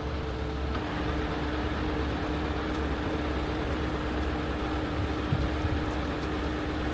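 Heavy-duty rotator tow truck's diesel engine running steadily with a constant whine over a low rumble, while the truck lowers a suspended load; the pitch shifts slightly about a second in.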